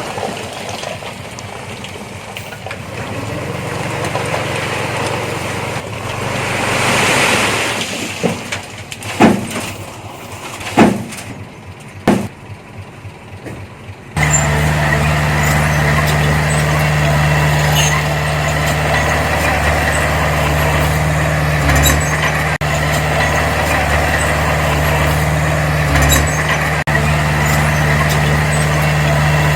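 Heavy diesel earthmoving machinery at work. For the first half the engine noise rises and falls, broken by three short loud bursts. About halfway through a diesel engine comes in suddenly, running steadily at an even pitch.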